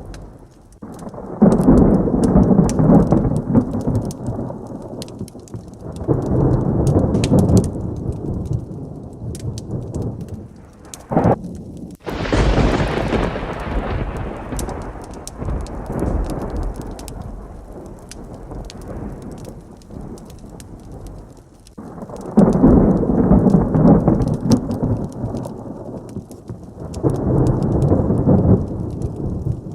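Steady heavy rain with several rolls of thunder. The sharpest is a crack about twelve seconds in that trails off into a long rumble, and two more rumbles come near the start and two near the end.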